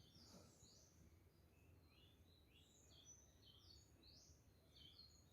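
Near silence, with faint birds chirping repeatedly in the background.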